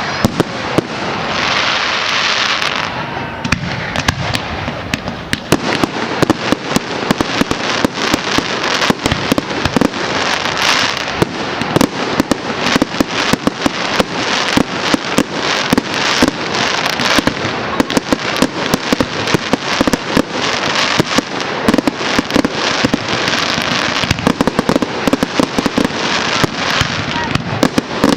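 Public firework display going off continuously: a dense barrage of bangs, pops and crackling bursts, with hissing stretches near the start and near the end.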